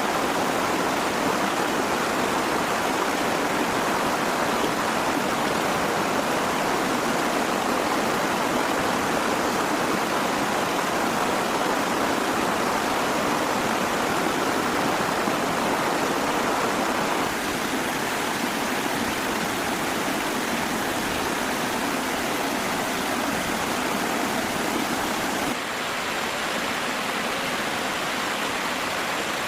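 Steady rushing of flowing water, with no other distinct events; the level steps down slightly about 17 seconds in and again near the end.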